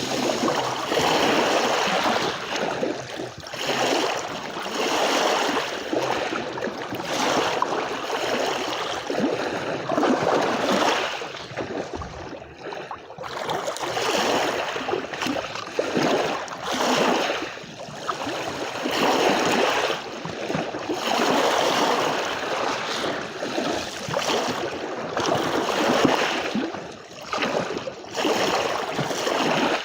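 Small sea waves breaking and washing onto a beach, the rush of water swelling and falling back every two seconds or so.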